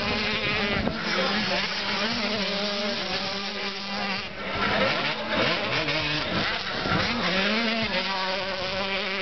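Several motocross bikes racing, their engines buzzing and revving, with overlapping notes that rise and fall as the riders open and close the throttle and shift gears.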